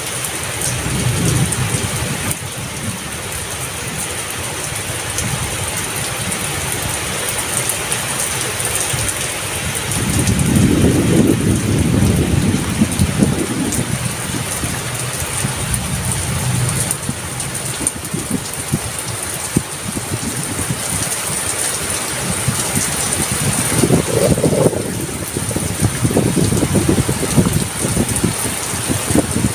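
Heavy rain falling steadily. A low rumble swells and fades about ten seconds in, and another comes near the end.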